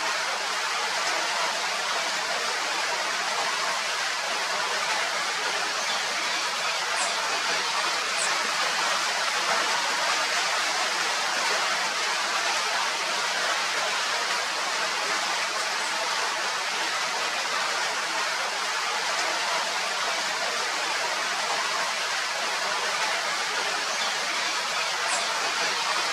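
Steady hiss of rain falling, even and unbroken, with a few faint, brief high-pitched chirps.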